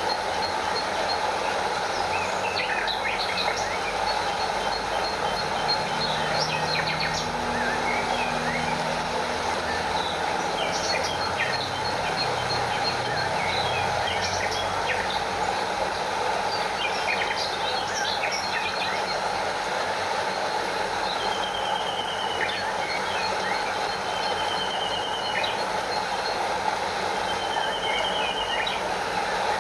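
Steady rush of a stream flowing over a small waterfall, with birds chirping over it and a few quick trills in the second half. A thin, rapid pulsing insect call, cicadas, runs faintly beneath the birds.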